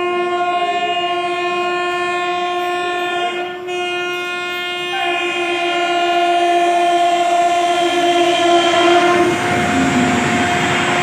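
Locomotive horn sounding long, steady blasts, broken briefly about three and a half seconds in. From about six seconds the rumble and wheel clatter of a passing express train grows and takes over as the horn fades near the end.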